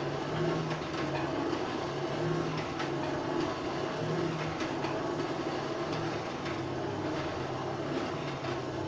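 Coal forge running with its blower pushing air through the fire: a steady rush with a low hum that swells and fades in a slow even rhythm, and faint crackles from the burning coal. The fire is being brought up to welding heat.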